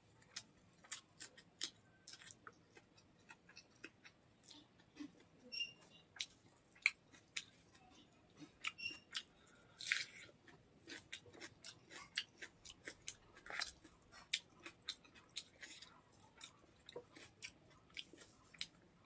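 Close-miked chewing of rice and chicken gizzard curry: a steady run of short, sharp wet mouth clicks and lip smacks, with a brief louder burst about halfway through.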